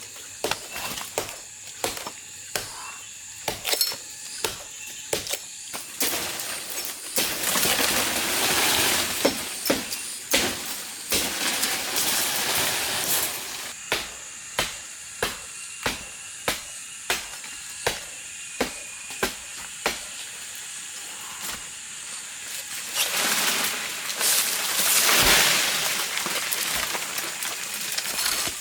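Sharp knocks repeating about twice a second, like chopping or striking, with two longer stretches of loud rustling hiss that are the loudest parts, and a steady high whine underneath.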